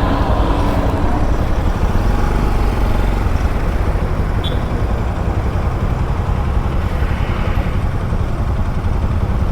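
Motorcycle underway on the road, heard from the rider's camera: a steady low rumble of wind and road noise with the engine running beneath it. A short faint high beep sounds about halfway through.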